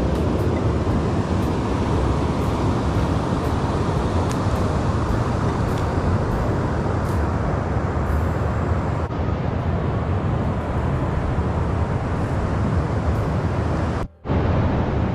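Steady rush of wind and road noise while riding a Brompton folding bicycle, with a brief dropout near the end.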